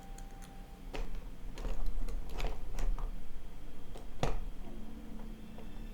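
Translucent plastic crystal-puzzle pieces clicking and clacking together as they are handled and tried for fit, several sharp irregular clicks.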